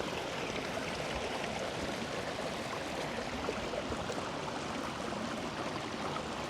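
Creek water rushing steadily over small rocky drops and riffles.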